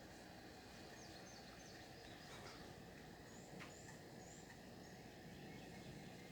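Near silence: faint outdoor background hiss with a few brief, high bird chirps scattered through.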